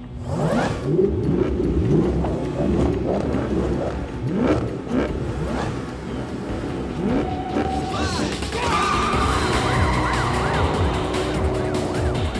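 Police car engines revving hard and accelerating, with repeated rising sweeps as they change gear. From about eight seconds in, several police sirens wail over the engines.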